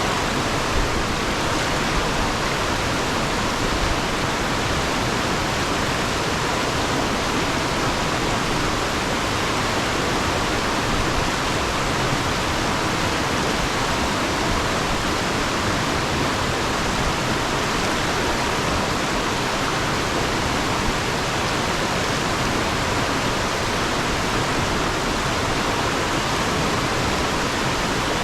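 Fast river water rushing over and around rocks: a steady, even rush without let-up.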